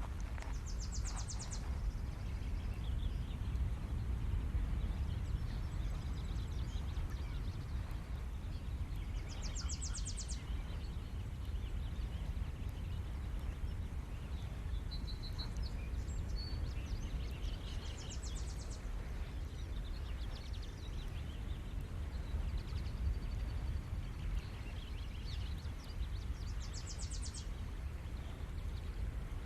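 Ocean surf on a Maui shore, a steady low rumble of waves, with a bird repeating a short, rapid high trill about every eight or nine seconds and a few brief chirps in between.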